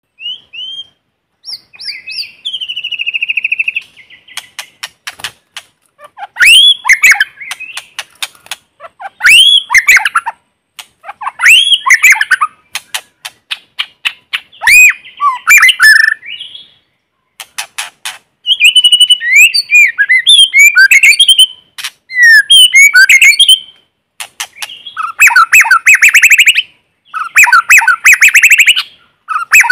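White-rumped shama singing: varied phrases of clear gliding whistles mixed with fast clicking and rattling notes, separated by short pauses. The last few phrases are dense rapid trills.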